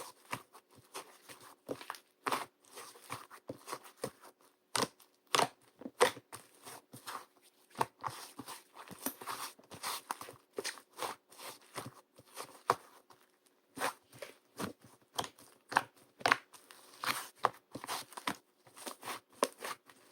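Irregular short taps, clicks and crinkles of small objects being handled, some sharper and louder than others, over a faint low hum.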